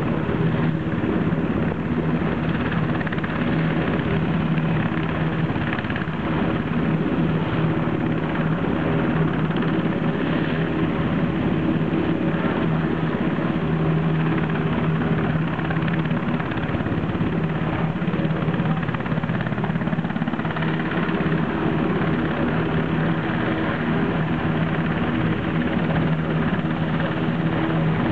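Rescue helicopter running close by, a loud, steady sound with an even low hum that holds the same pitch.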